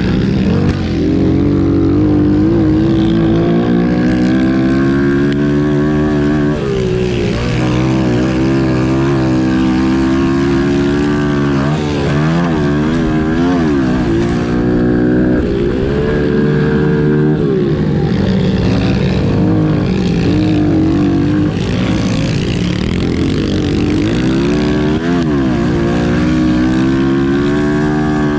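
Pit bike engine running hard, its pitch climbing and dropping again and again as the throttle opens and closes through the gears.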